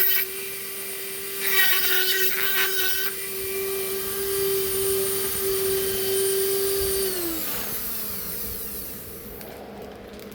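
Electric rotary carving tool running with a steady high whine, with a burr grinding against wood in a louder, rougher stretch about one and a half to three seconds in. About seven seconds in it is switched off and the whine falls away as the tool spins down.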